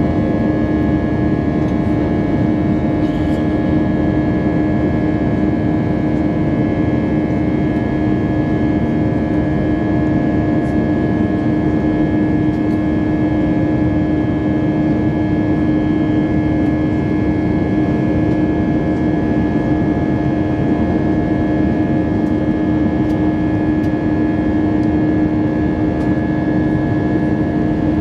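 Steady cabin noise inside an Airbus A320: engine drone and airflow with a constant low hum and a fainter high whine.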